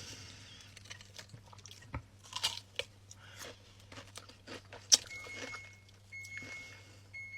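Crunchy snack being bitten and chewed close up, in a string of sharp crunches, the loudest about five seconds in. From about five seconds a fridge's door-open alarm starts beeping, long high beeps with short gaps, the sign that the fridge door has been left open.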